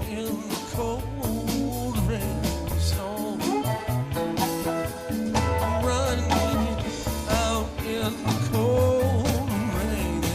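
Live rock band playing: electric guitar and bass over a drum kit, with a lead line bending in pitch.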